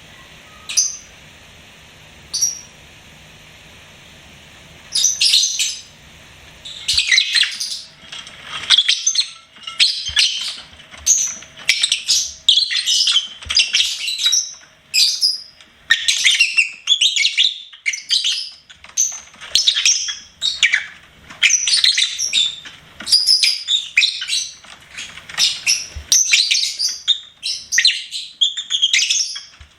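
Lovebird chirping: two single high-pitched chirps in the first few seconds, then from about five seconds in a rapid, unbroken run of chirps and twitters.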